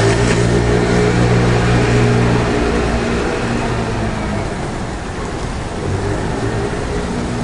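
A car engine running close by, its low hum fading away about two and a half seconds in, over the steady hiss of a wet street.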